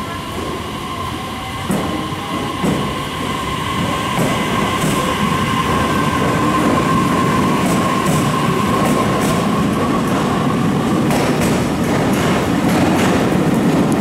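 Train running at a platform, growing louder, with a steady high whine that fades out about ten seconds in. After that come rapid clicks of wheels over rail joints.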